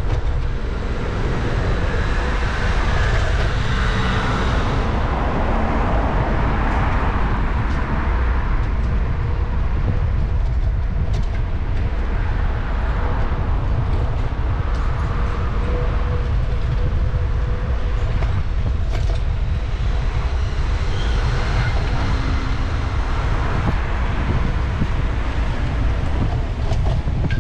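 Steady low rumble of wind and rolling noise from a bicycle ride through city streets, with passing traffic and a few light clicks.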